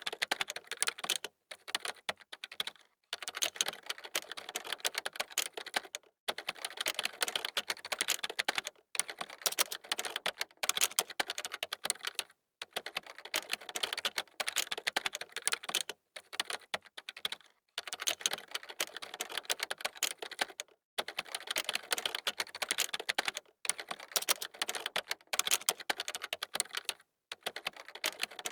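Fast typing on a computer keyboard: rapid runs of key clicks lasting a few seconds each, broken by short pauses.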